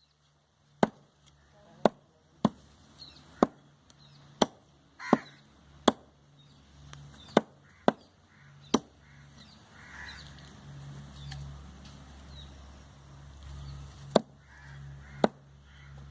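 Cleaver chopping goat meat: about ten sharp strikes, roughly one a second, then a pause of several seconds before two more strikes near the end.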